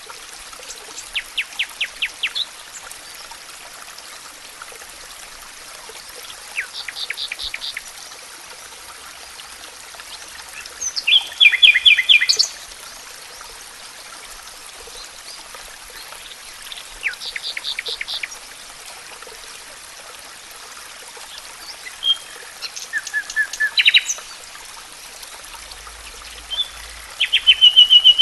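Forest songbirds singing: short bursts of rapidly repeated high notes, one phrase every five seconds or so, the loudest about halfway through, over a steady background hiss.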